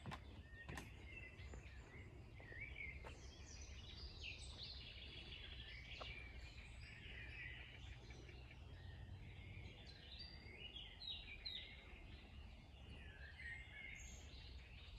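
Faint birdsong, many small chirps and warbles overlapping, over a low steady outdoor rumble.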